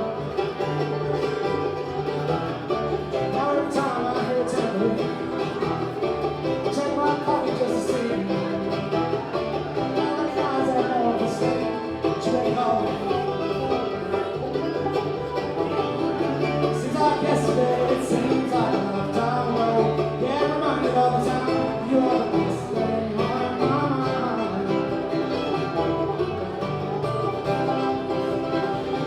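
Live bluegrass band playing a song, with plucked strings and a steady bass line.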